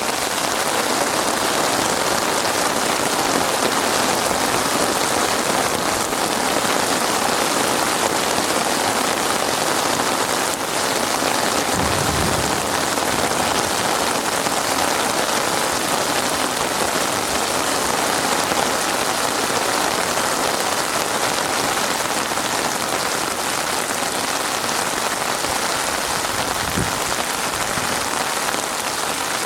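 Heavy rain falling steadily, a dense even hiss of drops on surfaces. Two brief low thuds sound, about halfway through and near the end.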